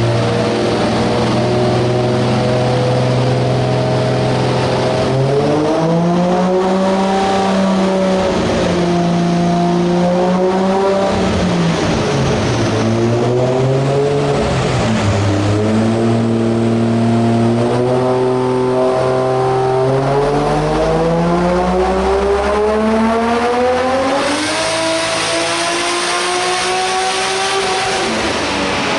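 Car engine running on a chassis dyno, held at a series of steady engine speeds and stepped up in pitch between them. It dips briefly about twelve seconds in, then climbs to its highest pitch, which holds with an added hiss near the end before dropping.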